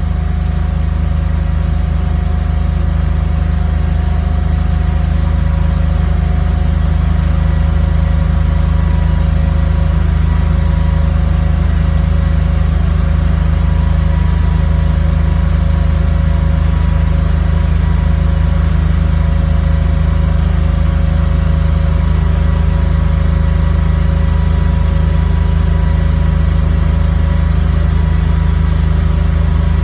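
Car engine with Bosch CIS (K-Jetronic) continuous fuel injection running steadily on its own, warming up after a cold start with no throttle applied. The wideband gauge reads the mixture lean, fluctuating around 15.9 to 16 AFR.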